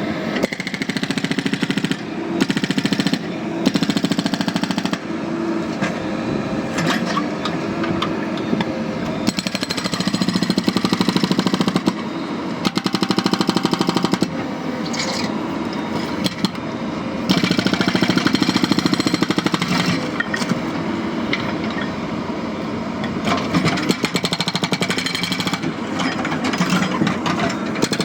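Hydraulic breaker on a JCB backhoe loader hammering rapidly, in long spells broken by short pauses.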